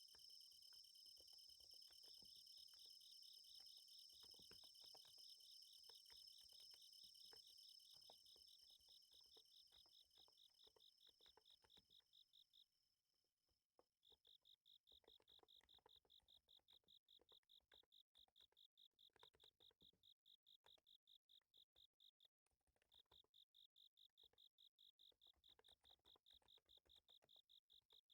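Faint insects chirping, a steady high trill that breaks off about thirteen seconds in and comes back as a rapid pulsing chirp, over soft irregular keystrokes from a Niz Plum x108 electro-capacitive keyboard.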